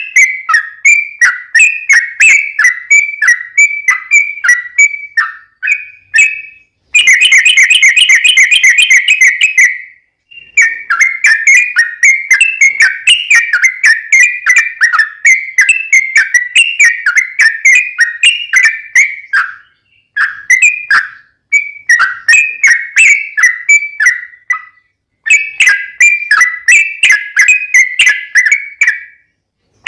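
Yellow-vented bulbul (trucukan) singing: loud, bubbly whistled phrases repeated rapidly, with a long fast rolling run about seven seconds in. The song breaks off briefly a few times.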